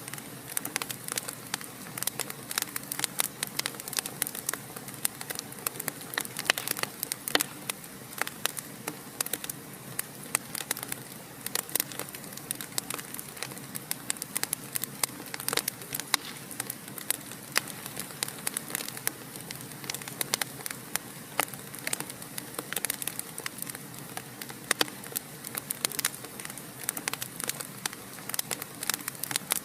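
Fire crackling in a fireplace: many small, irregular pops and snaps over a steady soft hiss.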